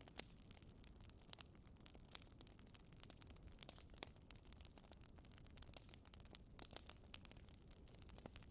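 Wood fire burning in a fireplace: irregular crackles and pops over a soft low rumble of flames.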